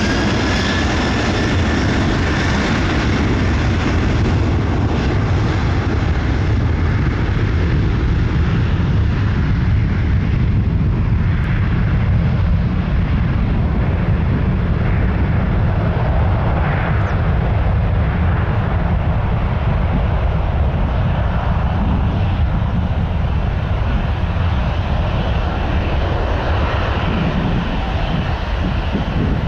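Airbus A330-300 jet airliner taking off: twin jet engines at takeoff thrust give a loud, steady low rumble. A falling engine whine fades out about a second in.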